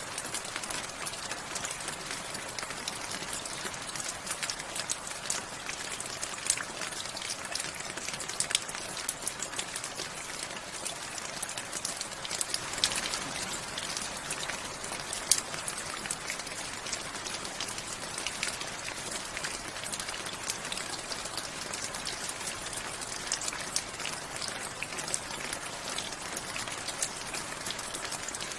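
Steady rain falling, an even hiss dotted with the sharp ticks of single drops hitting a surface.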